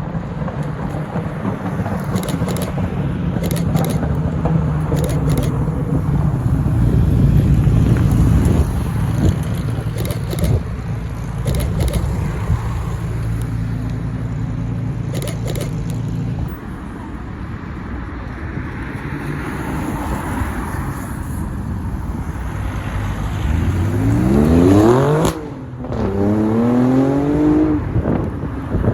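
Supercar engines running at low speed, with a steady low rumble for the first half. Then a car accelerates hard: its revs climb steeply, drop at an upshift, and climb again.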